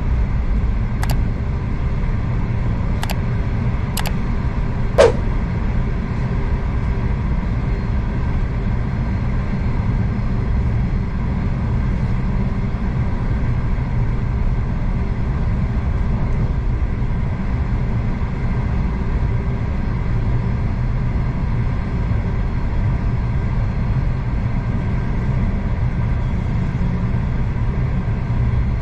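Steady low rumble of a V/Line passenger train under way, heard from inside the carriage. A few sharp clicks come in the first five seconds, the last and loudest about five seconds in with a brief ring.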